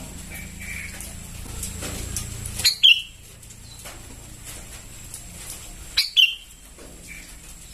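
Young sooty-headed bulbul calling: two loud, sharp calls about three seconds apart, each a quick pair of notes falling in pitch, with softer chirps between.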